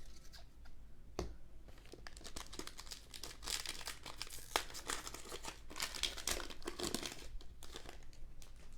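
Trading-card pack wrapper being torn open and crinkled, a dense crackling with sharp ticks, loudest through the middle of the stretch.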